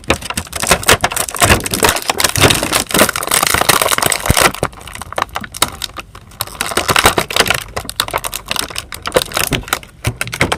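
Plastic packaging crinkling and rustling in the hands as a toy figure's parts are unwrapped, with dense irregular clicks and rattles, easing off briefly about halfway through.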